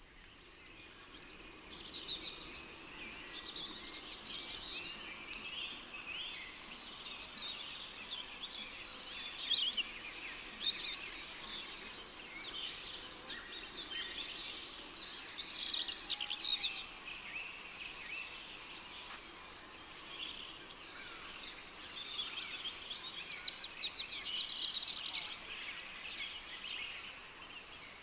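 Rainforest ambience: an insect, taken to be a cricket, trills steadily in rapid even pulses, while many birds call and chirp over it. The sound fades in over the first couple of seconds.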